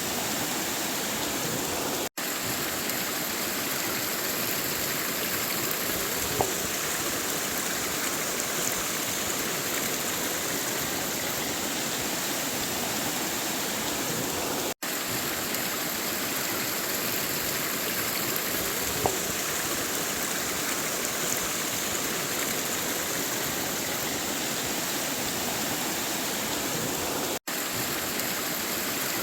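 River water flowing in a steady, continuous rush. The sound cuts out for an instant three times, about every twelve to thirteen seconds, with two faint clicks in between.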